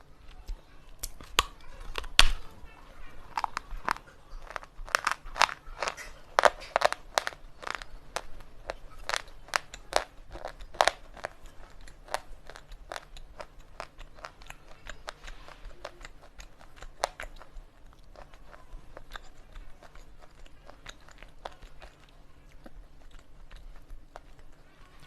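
Slate pencils being bitten and chewed close to the microphone: a run of sharp, brittle crunches and snaps, dense and loud through the first half, then sparser, softer chewing crunches.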